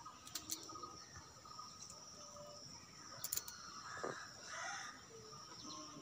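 Faint bird calls in the open air, with a few sharp clicks near the start and about three seconds in.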